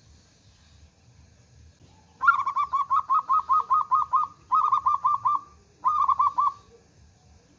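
Zebra dove (perkutut) singing: three runs of quick, evenly repeated notes, starting about two seconds in, the first about two seconds long and the next two shorter.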